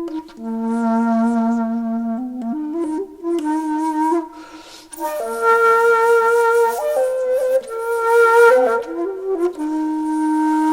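Background music on a solo flute-like wind instrument, holding long notes that step up and down between pitches, with breath noise at a pause about halfway through.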